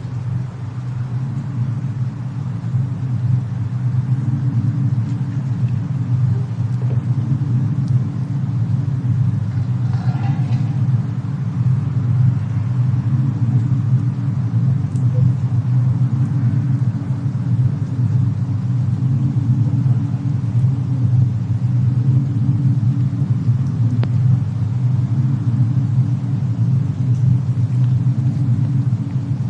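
Steady low rumble of a fireplace-and-snowstorm ambience bed, fading up over the first second or two, with a few faint crackle-like clicks.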